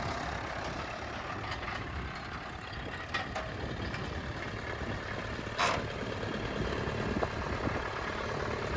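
International A414 tractor engine running steadily, with a couple of short clicks about three and five and a half seconds in.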